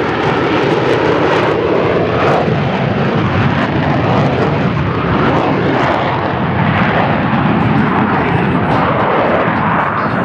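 F-35B Lightning II jet running loud and steady in a hover in short-takeoff/vertical-landing mode, its engine noise swelling and easing slightly as the jet holds position.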